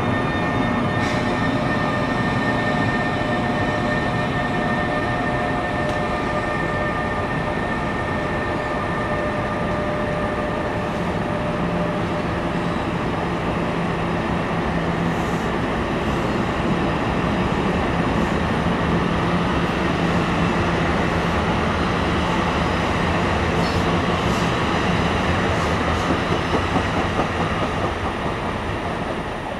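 NJ Transit electric train departing: bi-level passenger coaches rolling past close by with a steady rumble and clatter of wheels on rail. The ALP-46 electric locomotive's high whine fades away over the first several seconds. The sound drops off near the end as the cab car goes by.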